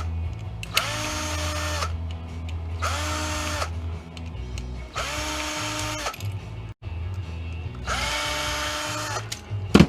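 A small electric power tool such as a drill runs in four short bursts of about a second each, its motor winding up at the start of each burst and down at the end. A sharp knock comes just before the end.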